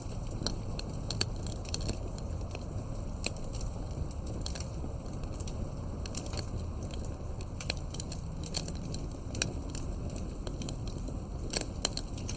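Campfire burning: a steady low rumble of flames with irregular sharp crackles and pops of burning wood, a few louder pops near the end.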